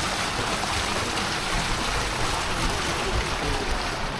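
Steady rushing noise of wind and road on the camera microphone while riding a bicycle.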